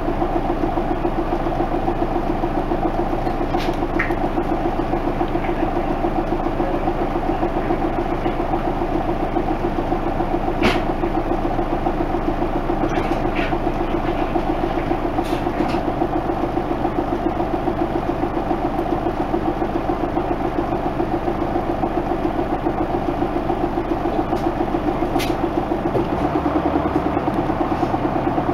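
Isuzu Erga Mio bus's diesel engine running steadily at an unchanging engine speed, with a sharp click about ten seconds in.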